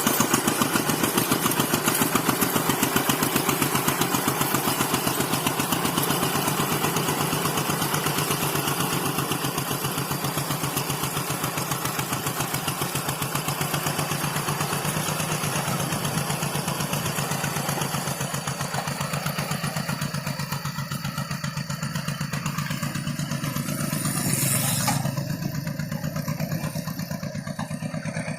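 Rice-field tractor engine running steadily with an even, rapid chugging beat, gradually growing fainter and duller. Near the end there is a brief louder rush of noise.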